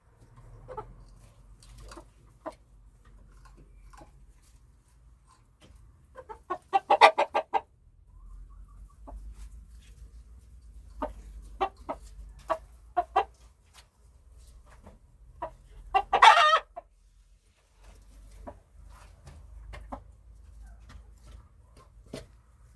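Domestic chickens clucking in short, scattered calls, with two loud, drawn-out calls about seven seconds in and again about sixteen seconds in.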